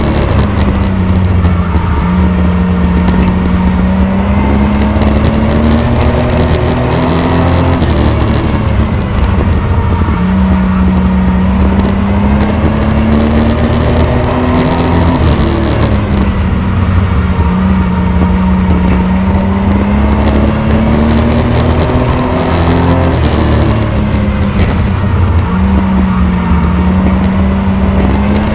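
Race truck engine running hard around a short oval track: its pitch climbs steadily, then drops sharply and recovers, about every seven to eight seconds, as it lifts for each turn and accelerates down each straight.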